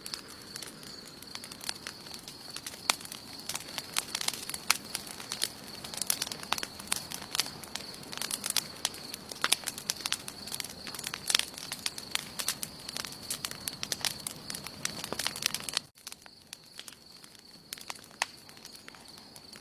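Wood campfire crackling, with many sharp pops and snaps over a soft steady hiss and a thin high tone. About 16 seconds in the sound drops out for an instant, then the crackling comes back sparser.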